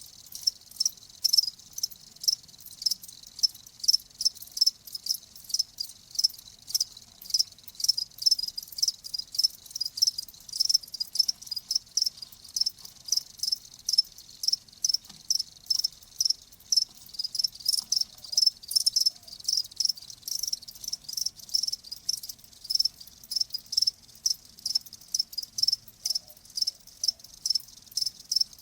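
Crickets chirping in short, high-pitched pulses at a steady rhythm of about two to three chirps a second.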